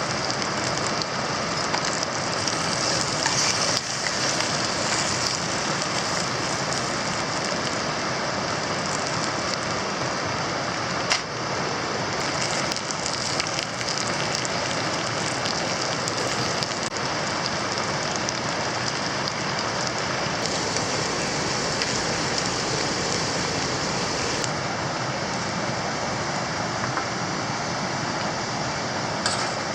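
Steady rain: an even hiss with a single sharp click about eleven seconds in.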